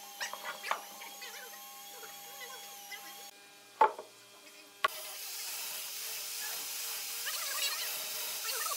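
Thick ebony slab being lowered and shifted on wooden floor supports: light wooden knocks and scrapes, then one loud wooden knock about four seconds in as it comes down flat. After that a faint steady hiss with light scratching.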